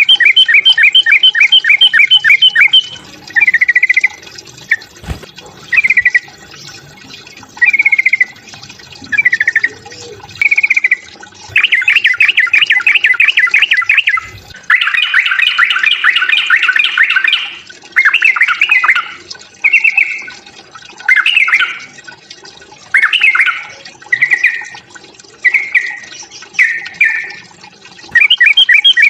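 Yellow-vented bulbul (trucukan) giving its excited 'fighting' song: a fast, bubbling chatter of repeated notes in short phrases with brief pauses, including two longer runs near the middle.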